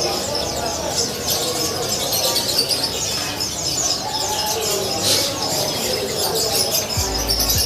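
A dense chorus of many caged songbirds chirping and twittering at once, high-pitched and unbroken. A low hum comes in near the end.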